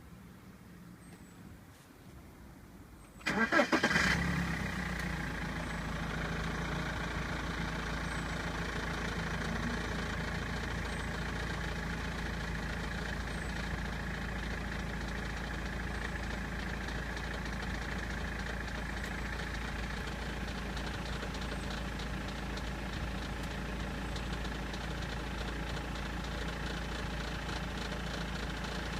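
BMW 320d's M47 four-cylinder diesel engine cranking and firing about three seconds in, then idling steadily. A rattle in the idle becomes clearer about halfway through; the owner suspects the crankshaft pulley and doubts it is the timing chain.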